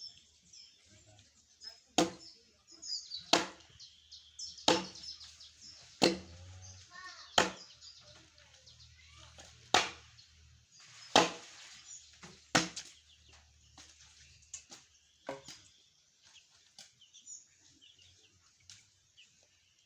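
Repeated sharp blows of a tool striking wood, a steady rhythm of about one blow every second and a half, fading to lighter strikes after about thirteen seconds.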